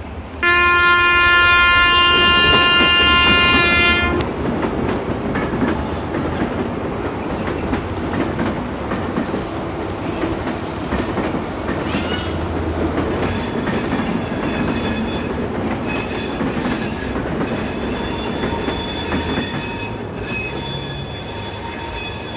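One long train horn blast starting about half a second in and lasting about three and a half seconds, followed by the steady running noise of a train with wheel clatter on the rails.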